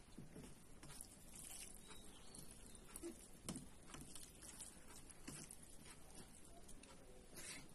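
Faint chewing and mouth sounds of a person eating: soft scattered clicks and smacks.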